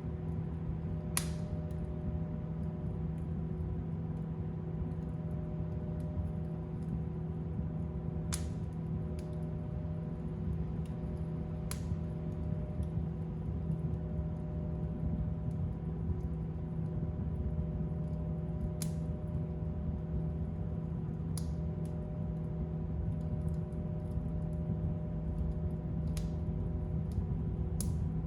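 Fire burning in a fireplace: a steady low rush of flame with sharp crackling pops every few seconds.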